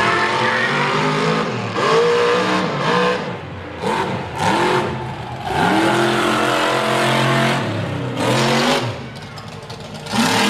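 Mega truck engine revving hard in repeated bursts, its pitch climbing and dropping again about four or five times.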